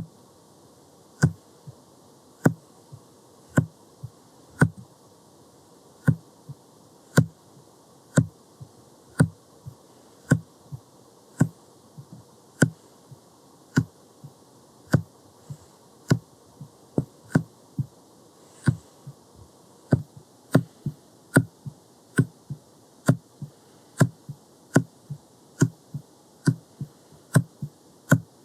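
Jelly stamper pressed repeatedly against the microphone, making a series of dull taps about one to two a second that come quicker in the second half.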